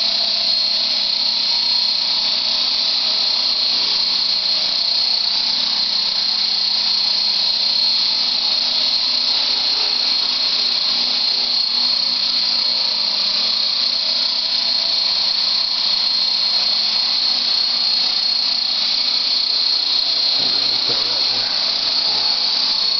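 Radio-controlled model helicopter hovering: a steady high-pitched motor and rotor whine with a constant lower hum, level and unbroken.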